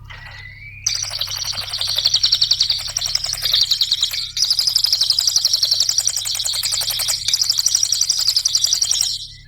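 A cililin songbird singing: a short rising whistle, then from about a second in a long, very rapid high-pitched trill of fast-repeated notes that runs almost without a break until near the end.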